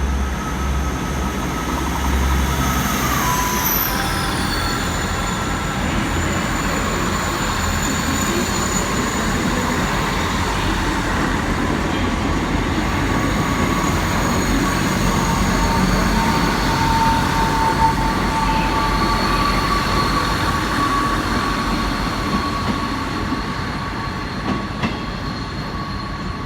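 South Western Railway Class 159 diesel multiple unit moving through the station, a steady rumble with high squealing tones from the wheels, a couple of which drop in pitch about three seconds in.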